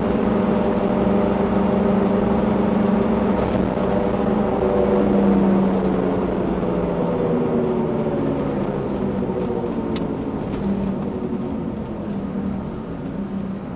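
Car engine running under way, its pitch rising slightly for a few seconds and then falling as it fades toward the end, with a brief tick about ten seconds in.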